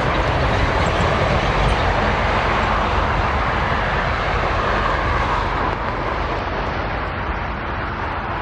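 Steady rushing jet engine noise from an aircraft at the airfield, easing slightly after about six seconds.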